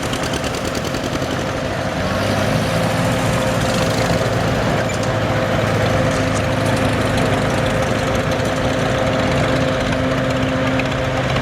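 Farm tractor engines running at a steady speed as tractors drive past, with a constant droning tone.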